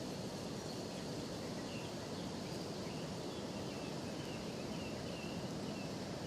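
Steady outdoor background noise with a run of faint, short, high chirps starting about two seconds in, like a small bird calling in the distance.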